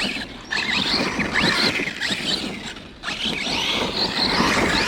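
Arrma Kraton 6S RC truck's brushless electric motor whining up and down in pitch as it is driven hard on the throttle, in two bursts with a short lull about three seconds in.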